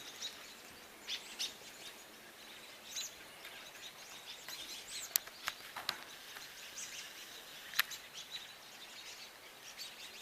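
Several wild birds chirping and calling: many short, quick chirps over a steady background hiss, with two sharp clicks about halfway through and near the end.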